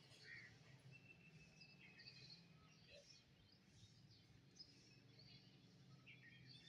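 Faint birdsong: several small birds chirping and giving short trills and whistles, over a low steady hum.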